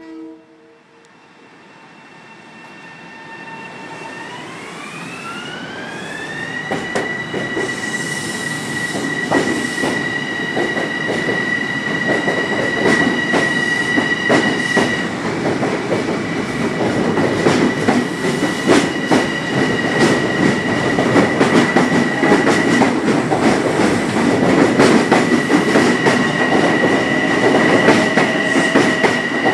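Long Island Rail Road electric multiple-unit train running past along the platform, growing louder as the cars go by. A high whine rises in pitch about four to seven seconds in and then holds steady. From about eight seconds on, the wheels click rapidly over the rail joints.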